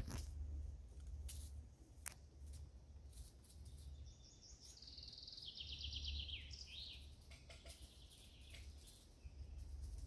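A songbird sings one trilled phrase of about three seconds that steps down in pitch and ends in a quick flourish, about four seconds in. Under it runs a low rumble on the microphone, with a few sharp clicks in the first two seconds.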